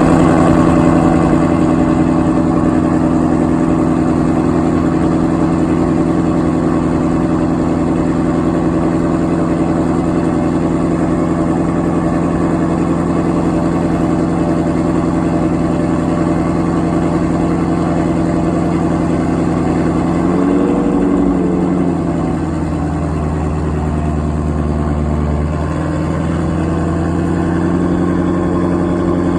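2017 Shelby GT350R's 5.2-litre flat-plane-crank V8 idling through its stock exhaust just after start-up, with a steady, even note. About 20 seconds in the idle wavers and then settles at a lower, quieter speed.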